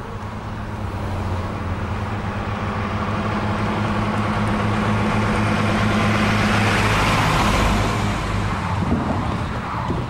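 A MAN tanker lorry's diesel engine running as it drives up and passes close by, growing louder to a peak about three quarters of the way through and then easing off.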